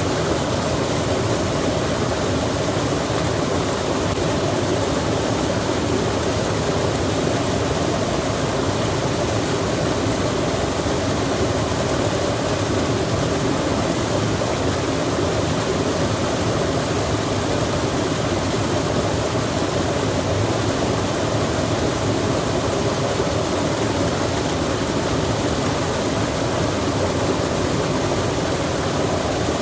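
Steady rushing of flowing water, even and unbroken, with no separate sounds standing out.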